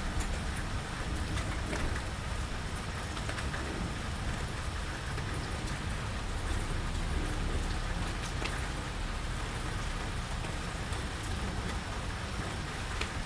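Steady rain falling around a porch, with scattered single drops ticking close by and a low rumble underneath.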